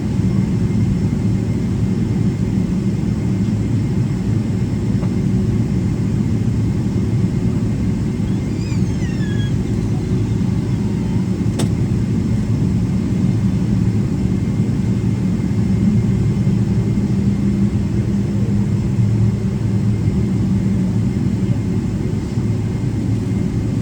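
Cabin drone of a Boeing 777-300ER's GE90-115B turbofans running at idle while taxiing, heard from inside the cabin. It is a steady low rumble with a faint high whine. A brief squeaky chirp comes about nine seconds in and a sharp click a little after.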